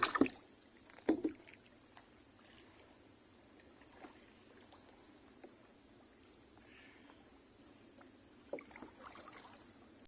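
Nighttime insect chorus in a mangrove: a steady, shrill high-pitched drone, with a few faint knocks.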